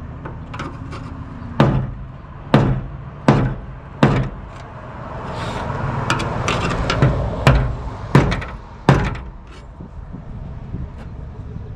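Sharp metal knocks, about seven in all, with a stretch of rough scraping in the middle, as the rust-welded fuel tank sending unit is worked loose from the tank.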